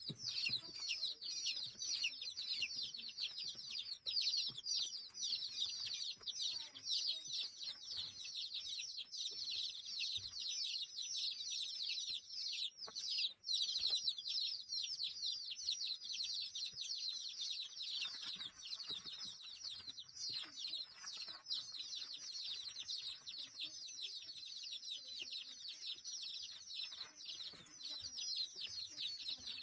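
A crowd of small birds calling all at once: a dense, continuous chorus of quick, high, down-slurred peeps and chirps.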